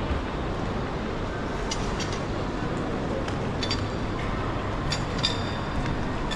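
Steady background hubbub of a busy indoor waiting hall, broken by a few short, light clinks, the clearest near the end.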